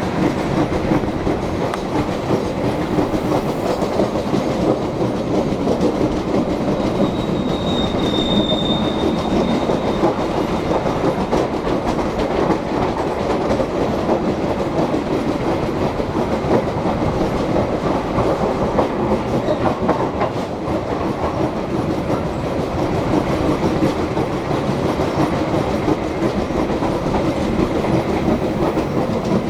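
Passenger train running along the track: a steady rumble of wheels on rails with clickety-clack, and a brief high-pitched squeal a little under halfway through.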